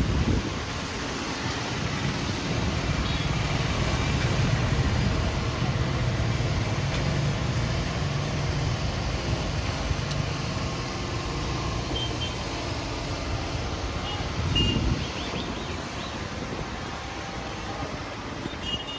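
Steady rumble of road traffic from the street below, with a few short, faint high-pitched tones near the end and a brief louder swell about three-quarters of the way through.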